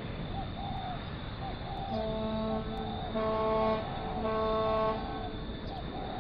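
An electronic alarm, in the manner of a car alarm, going off: short warbling chirps repeat a few times a second, broken by steady horn-like beeps lasting under a second each, over a steady low background hum.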